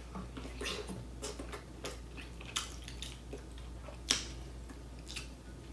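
Close-up mouth sounds of a person chewing a soft boiled potato: small wet clicks and lip smacks at irregular intervals, with one sharper smack about four seconds in.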